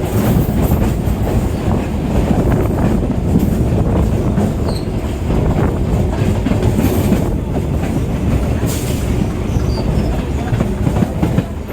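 Kolkata suburban EMU local train running over the rails: a loud, steady rumble and clatter of wheels on track, with a faint high wheel squeal twice.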